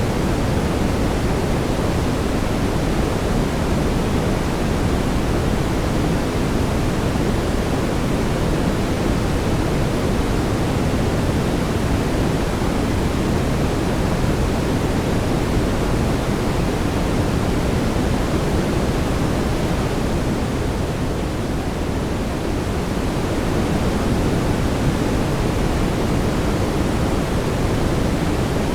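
Steady brown noise: an even, bass-heavy hiss with no tones or rhythm. It dips slightly in level about three quarters of the way through.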